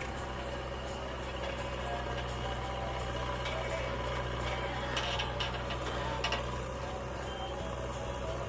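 Heavy diesel engine running steadily, with a few short clicks or knocks about five to six seconds in.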